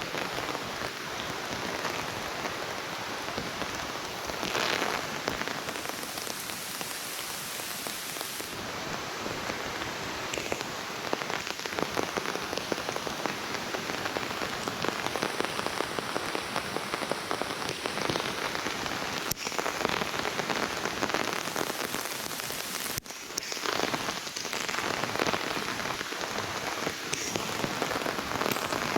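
Heavy rain falling steadily on rainforest foliage: a dense patter made of countless small drops.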